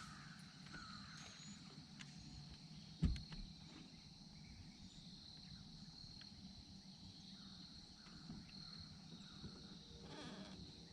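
Quiet outdoor ambience: a faint steady high-pitched drone, with one dull knock about three seconds in.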